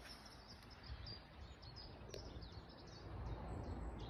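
Faint outdoor ambience: small birds chirping in quick, short high notes over a low rumble that grows a little near the end.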